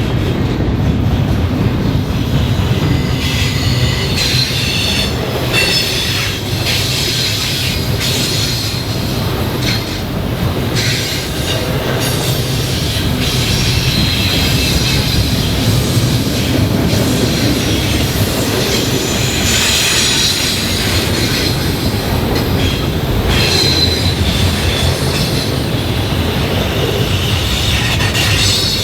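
Train rolling past with its cars rumbling steadily over the rails. Wheels squeal in high tones that come and go throughout.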